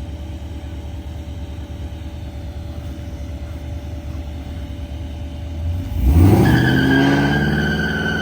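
Pontiac G8's LS V8 exhaust rumbling at low revs. About six seconds in, the throttle opens hard and the revs climb fast, and a steady high-pitched tyre squeal starts as the rear tyres break loose in a rolling burnout.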